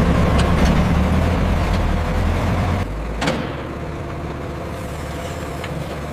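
Heavy vehicle engine rumbling low and steady, dropping in level about three seconds in, with a sharp metallic clank just after.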